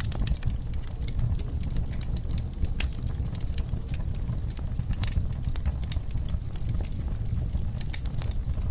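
Wood fire burning in a fireplace: a steady low rumble of the flames with frequent irregular crackles and sharp pops from the burning logs.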